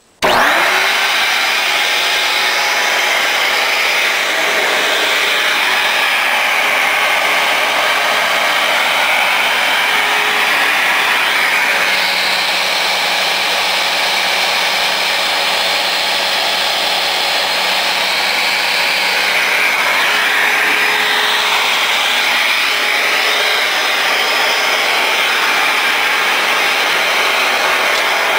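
Dirt Devil Vision Swivel Glide bagless upright vacuum cleaner switched on and running steadily at full power. It is working normally with a newly fitted brush-roll belt, replacing the snapped one.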